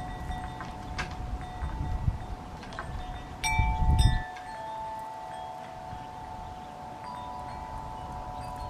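Wind chimes ringing: several long sustained tones that overlap and change pitch as new tubes are struck. A brief low rumble with two sharp clicks about three and a half seconds in.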